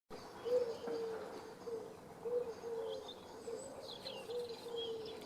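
A pigeon cooing in a steady run of short, low notes, with small birds chirping higher above it about halfway through.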